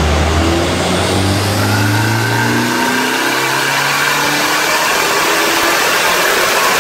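Turbocharged Mazda MX-5 four-cylinder engine in a rear-wheel-drive Nissan Micra revving under load on a rolling-road dyno, its note climbing steadily in pitch during a dyno pull. Under it runs the steady rush of the dyno's large cooling fan.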